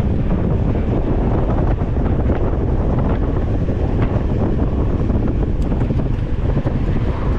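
Wind buffeting the microphone of an onboard camera on a moving mountain bike, a steady loud rumble.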